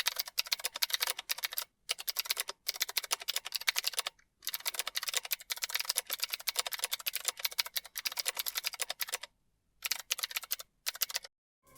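Rapid typing on a keyboard in several runs of fast clicks, broken by short pauses about two, two and a half, four, and nine and a half seconds in.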